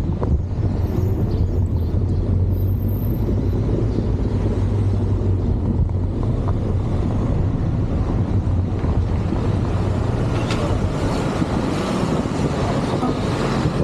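Motorcycle engine running steadily while riding, with wind rushing over the microphone; the wind rush grows louder over the last few seconds.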